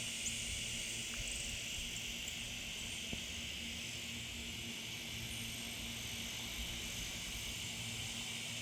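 Cicadas droning in a steady, unbroken chorus.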